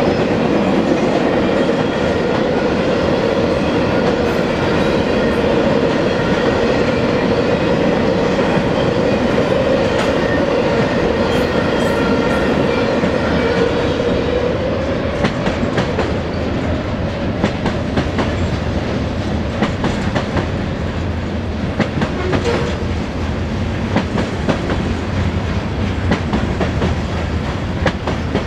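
Freight train cars rolling past at speed, intermodal container well cars followed by covered hoppers, with a steady rolling rumble. A humming wheel-on-rail tone carries through the first half and fades about halfway, after which sharper wheel clicks stand out.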